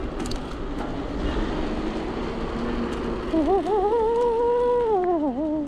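Steady outdoor street and riding noise, with a single high, wavering tone entering a little past halfway; it wobbles, holds, then sinks in pitch and stops abruptly.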